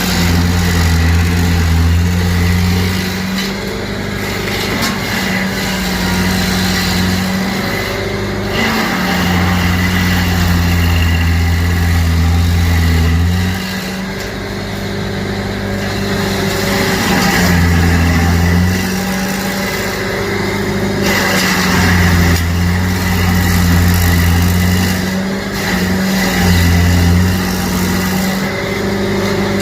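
Engine-driven stump grinder running under load, grinding a tree stump: a loud, steady engine note whose pitch dips briefly several times, over the noisy churn of the cutter wheel.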